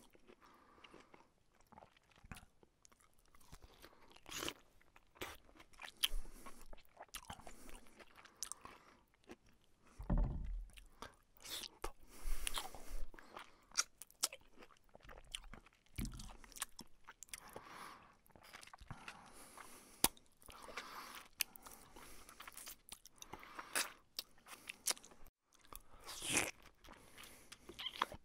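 Close-miked chewing and crunching of a person eating rice and fried fish by hand, in irregular bites and wet mouth sounds.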